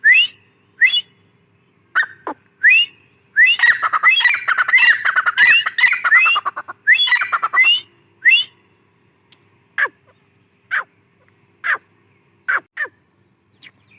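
Grey francolin calling: short, sharp rising notes repeated at intervals, a dense run of overlapping calls through the middle, then spaced single notes that drop steeply in pitch.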